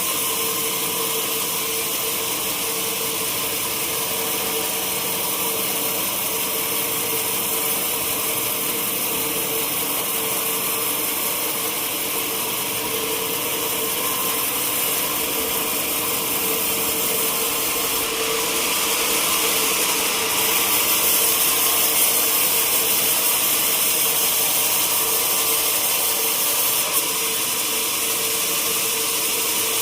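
Sawmill saw cutting teak wood, running steadily with a constant machine hum under a high hiss. It gets louder for a stretch about two-thirds of the way through.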